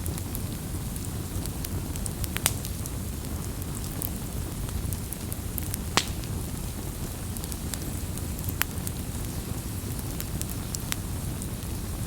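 Wood campfire crackling: a steady low rumble of burning with irregular sharp pops and snaps, the loudest about six seconds in.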